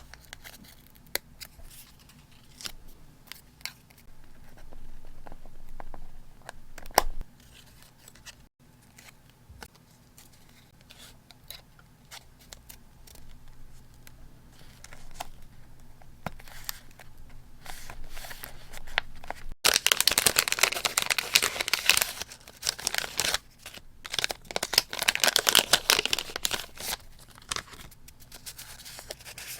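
Paper crafting at close range: scattered scissor snips and light paper clicks, then two louder spells of paper rustling, each lasting about three seconds, later on.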